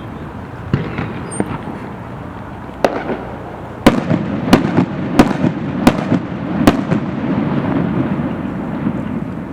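Aerial firework shells bursting: a few fainter bangs, then a run of five loud bangs about two-thirds of a second apart, with a rolling rumble between and after them that slowly dies down.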